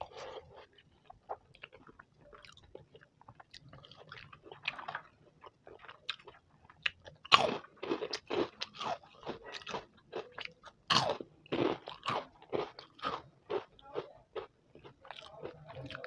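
Close-up eating sounds: crisp fried papad crunching between the teeth, a run of sharp crunches loudest about seven and again about eleven seconds in, with softer chewing between.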